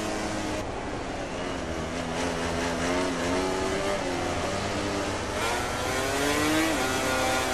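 MotoGP race motorcycles' engines on track, several engine notes rising and falling together as the bikes accelerate and shift, with one climbing hard about three quarters of the way through and dropping sharply.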